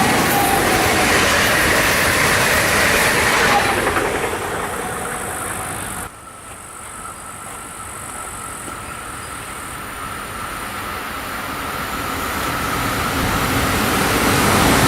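A train passing on the line, its noise fading away after about four seconds. After a sudden cut, another train approaches, growing steadily louder with a steady high whine.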